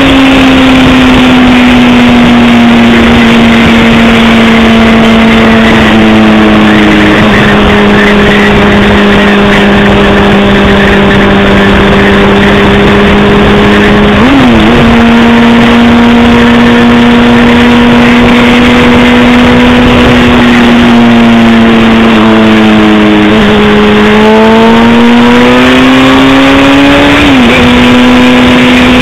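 Honda CBR600RR's inline-four engine running at a steady cruise, its pitch sinking slowly. There is a quick change in pitch about halfway through, then the engine climbs under throttle near the end before dropping back sharply, as with a gear change.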